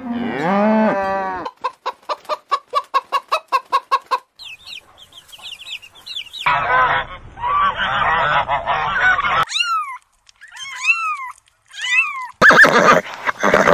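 A cow moos once at the start. A run of quick, evenly repeated bird calls and a dense burst of poultry calling follow, then chicks peeping in short falling cheeps. Near the end a cat meows loudly.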